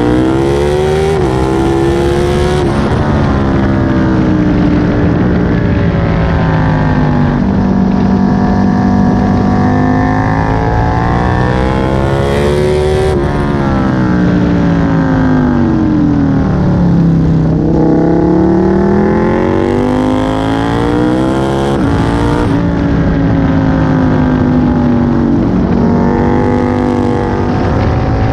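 Aprilia Tuono 1000's 60° V-twin engine under hard track riding, heard on board with wind rush: revs climb through upshifts, fall away under braking and downshifts in the middle, then climb hard again.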